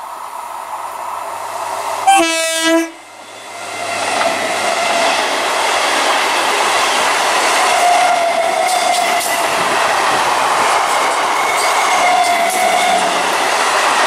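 Electric multiple unit (EMU) local train approaching and sounding its horn once, a short blast under a second long about two seconds in. It then passes close by with a loud, steady run of wheels on rails.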